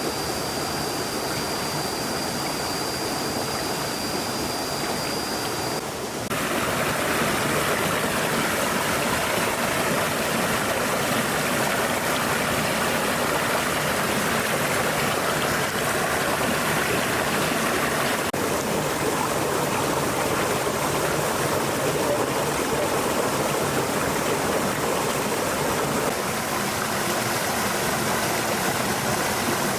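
Stream water flowing in a steady rush. A thin, steady high tone runs under it and stops about six seconds in, where the water becomes a little louder.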